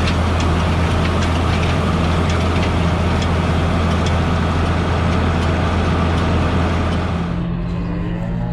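A heavy engine idling steadily, with faint regular ticking. About seven seconds in it drops away and a cow begins mooing.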